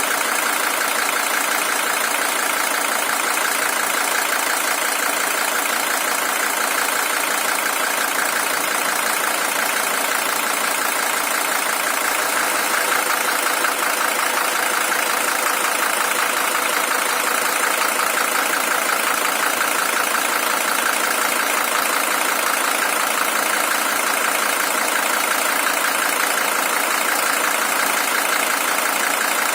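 Mercedes-Benz W123 300TD's OM617 five-cylinder diesel engine idling steadily.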